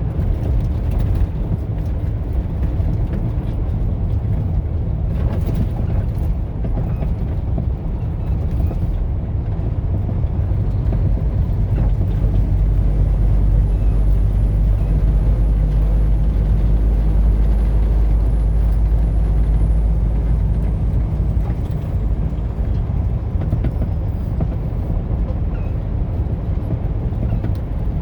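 Steady rumble of a vehicle driving at highway speed, tyre and engine noise with no let-up, growing louder and deeper for several seconds midway.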